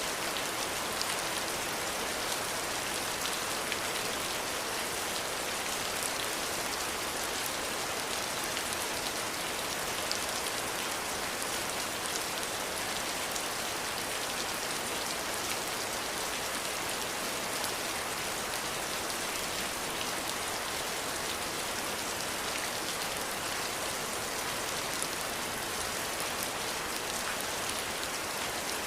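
Steady, gentle rain falling on a surface, a continuous patter with scattered individual drop ticks.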